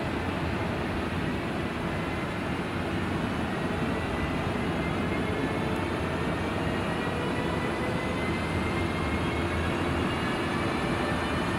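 Siemens Smartron class 192 electric locomotive approaching slowly at the head of a container train: a steady rumble with a faint whine that slowly rises in pitch, growing slightly louder.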